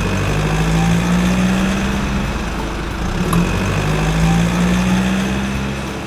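A vehicle engine sound: a low, steady drone that swells and holds twice, in the first couple of seconds and again about halfway through.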